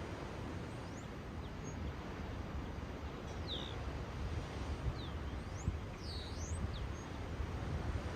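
Steady wash of ocean waves with a handful of short, high, swooping bird calls, most of them in the middle of the stretch.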